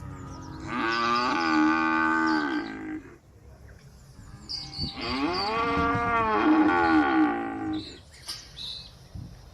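A cow mooing twice: two long moos, the first starting about a second in, the second, slightly longer, around the middle.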